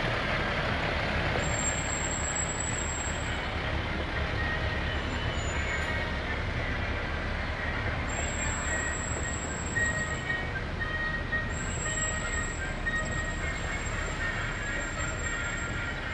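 Heavy fire apparatus running past with a steady low engine rumble, and a faint high whine that comes and goes.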